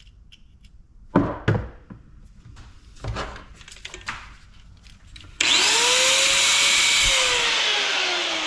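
A few knocks and clatters of metal parts being handled. Then, about five and a half seconds in, a power tool starts up loudly and runs steadily, its motor pitch slowly falling as it works under load on the part holding the copper pieces.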